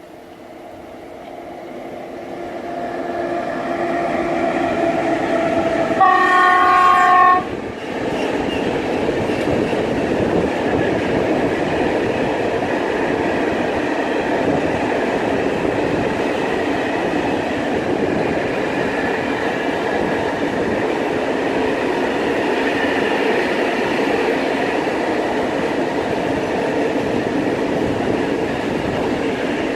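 Freight train approaching and passing: the locomotive grows louder over the first few seconds, sounds its horn once for about a second and a half about six seconds in, then the wagons roll past with steady rail noise.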